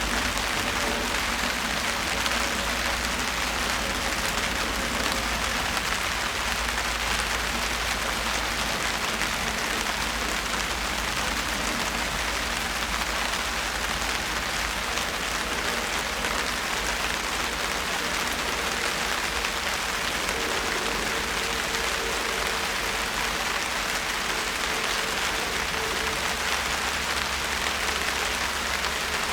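Steady rain falling on surfaces: an even, unbroken hiss of drops at a constant level, with a faint low hum underneath.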